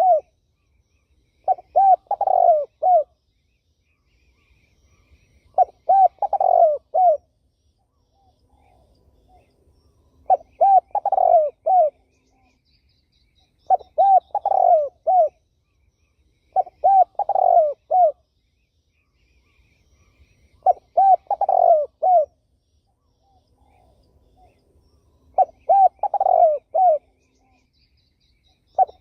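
A turtle dove cooing: a phrase of several coo notes about a second and a half long, repeated every three to five seconds, about eight times. Faint chirps of other small birds between the phrases.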